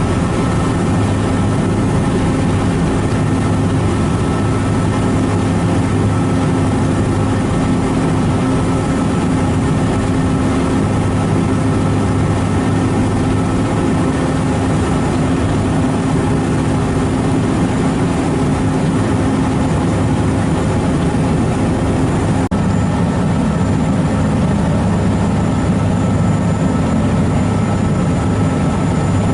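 Ferry engine running at a steady speed: a continuous low hum with constant tones and no change in pitch.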